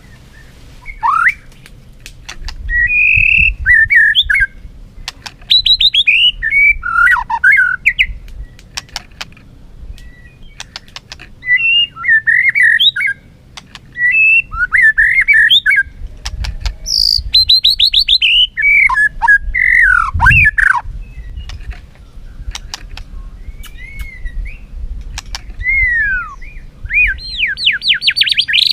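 White-rumped shama singing its competitive fighting song: varied loud whistled phrases, fast rising trills and sweeping notes in bursts with short pauses, mixed with sharp clicks.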